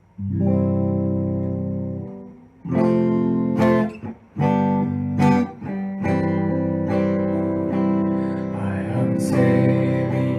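Acoustic guitar strumming sustained chords, with short breaks about two and four seconds in and a few sharp accented strokes.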